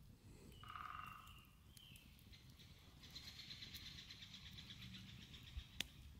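Faint woodland birdsong: a short pitched call about half a second in, a brief higher note near two seconds, then a rapid high trill lasting nearly three seconds. A single sharp click sounds near the end.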